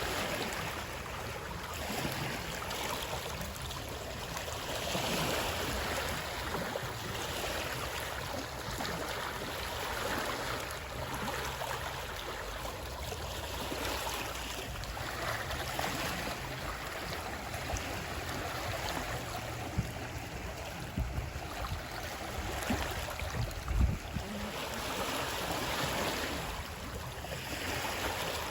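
Running water: a steady rushing hiss that swells and ebbs every few seconds, with a few brief low bumps about two-thirds of the way through.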